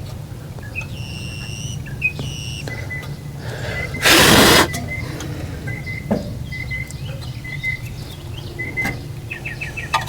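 Birds chirping over a steady low hum, with a few light clicks from hand work and a short, loud hiss about four seconds in.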